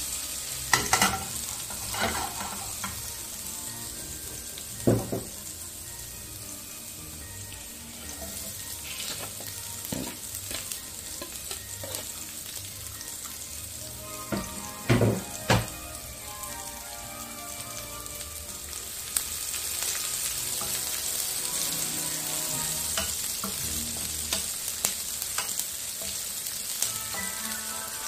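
Minced garlic and chopped onion sizzling in hot olive oil in a pan, a steady hiss that grows louder about two-thirds of the way through. A few sharp knocks come in the first half, and a wooden spatula stirs the pan near the end.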